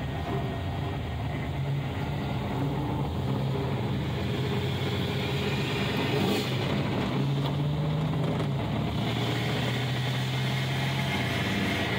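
1936 Nash street rod's engine running as the car drives slowly, heard from inside the cabin. The note steps up briefly past the middle, then settles back to a steady low drone.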